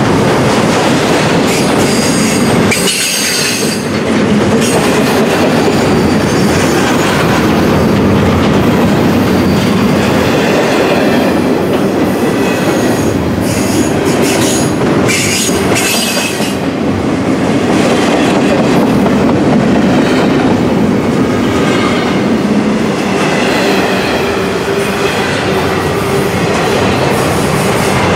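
Double-stack intermodal freight train rolling past: steady loud running noise of the well cars' wheels clacking over rail joints, with high-pitched wheel squeal rising several times, around three seconds in and again for a few seconds in the middle.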